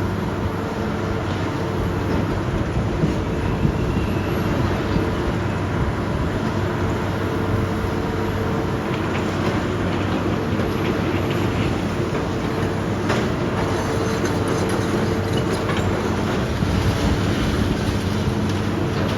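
Demolition machinery's diesel engine running steadily under load, with a few scattered knocks and clanks of work on debris.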